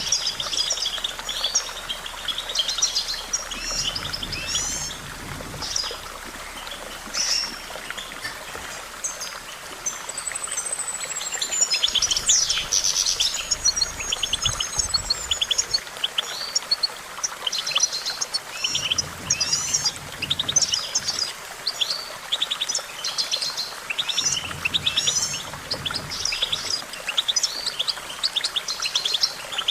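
European goldfinch singing: a long run of fast, twittering phrases made of quick chirps, buzzy trills and short whistled glides.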